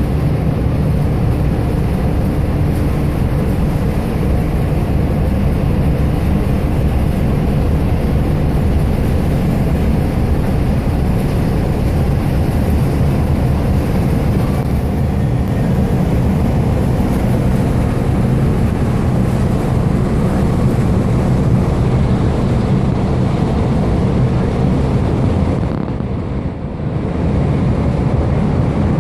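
Steady low rumble of a ferry's engines, with wind on the microphone.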